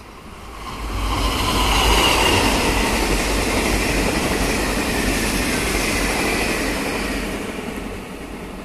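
Taiwan Railways passenger train passing on a viaduct: the rumble and clatter of its wheels on the rails swells about a second in, with a faint high tone sliding down in pitch, then fades near the end as the train moves away.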